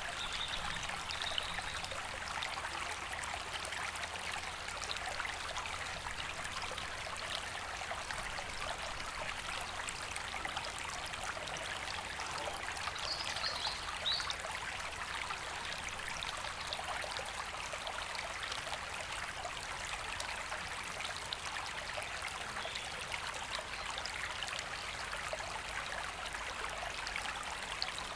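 River water flowing, a steady rushing with no breaks. A bird sings briefly in short high notes about a second in and again around thirteen seconds in.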